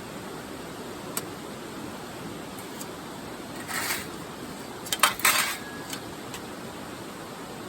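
Metal pieces clinking and clanking against each other about five seconds in, one with a brief ring, after a short scrape a second earlier, over a steady hiss.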